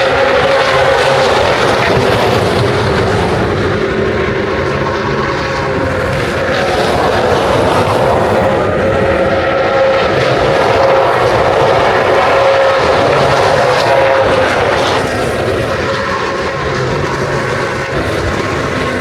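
Race car engines running on the circuit, heard as a loud continuous drone with a steady pitch that swells and eases a little as the cars go round.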